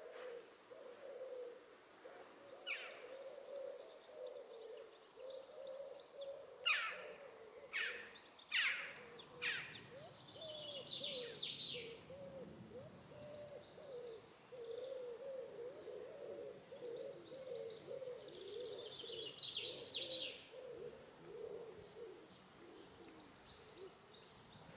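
Wild birds calling in a churchyard: a low, wavering hoot-like call runs throughout, with short bursts of high chirping. A few sharp, loud sounds come between about seven and ten seconds in.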